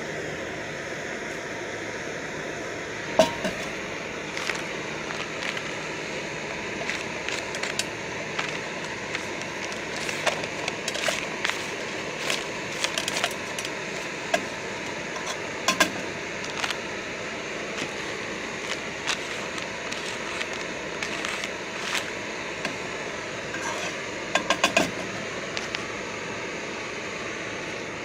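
A knife clinking and scraping against a metal canteen cup in scattered taps and knocks, with a sharper cluster near the end. Under it runs the steady hiss of a small backpacking gas stove burner.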